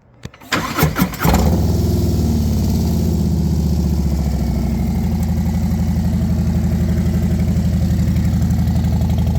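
2025 Harley-Davidson V-twin with its stock exhaust baffle removed being started: the starter cranks for about a second, then the engine catches and settles into a steady, loud idle through the open pipes.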